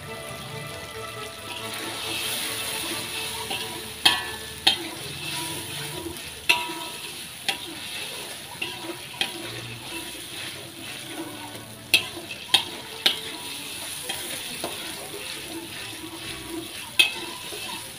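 Blended chilli paste frying in oil in a metal wok, sizzling steadily as a metal spatula stirs it, with sharp clacks of the spatula against the wok every few seconds. The paste is being sautéed until it turns crisp and fragrant.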